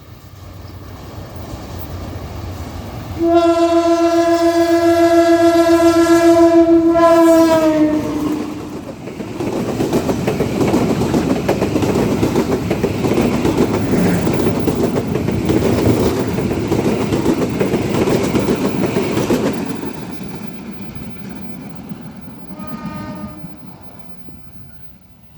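A train passing: the diesel locomotive's horn gives one long blast a few seconds in, its pitch dropping as it goes by. The wagons then rumble and clatter past for about ten seconds and fade away, with a short, fainter horn blast near the end.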